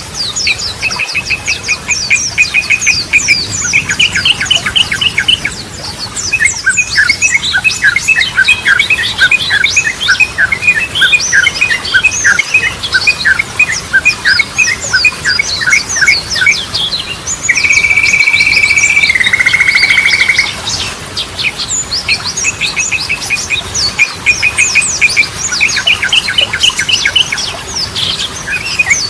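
Yellow-vented bulbul (trucukan) singing: long runs of quick repeated chirps with higher notes laid over them. About two-thirds of the way through comes a brief held whistle, then a trill.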